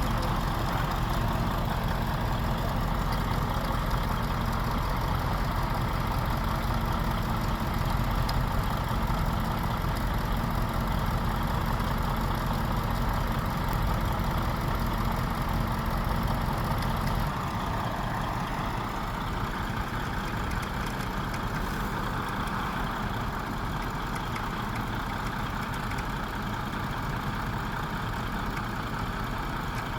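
A truck engine runs steadily at idle. About 17 seconds in, its deep low hum drops away abruptly, and soon after the engine note rises a little.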